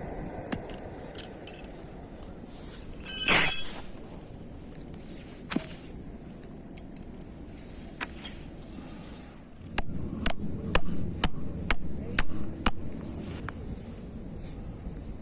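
Metal camp gear being handled: a loud ringing metallic clink about three seconds in, scattered sharp clicks, then a quick run of sharp knocks and clicks, about two a second, in the second half.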